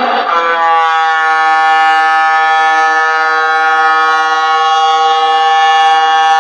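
A locomotive whistle held in one long blast: breathy at first, it settles within the first second into a steady, loud, multi-note tone that rises slightly in pitch before holding level.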